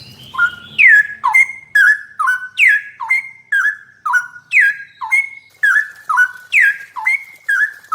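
Songbird singing a loud, rhythmic whistled phrase over and over, about twice a second: each time a sharply falling whistle followed by a short level note.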